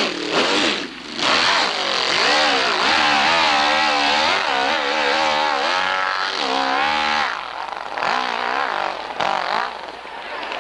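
Competition motorcycle engine revving hard, its pitch rising and falling again and again, with brief dips about a second in, around seven seconds and near the end.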